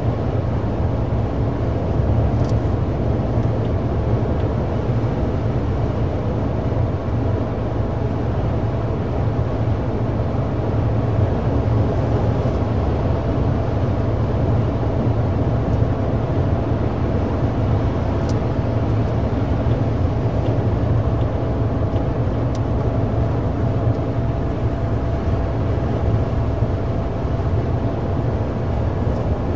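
Steady low rumble of a moving vehicle, with a faint steady whine and a few faint ticks.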